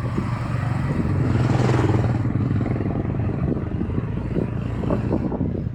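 A motor vehicle's engine running close by, with a low, rough rumble that grows louder toward about two seconds in and then slowly eases off.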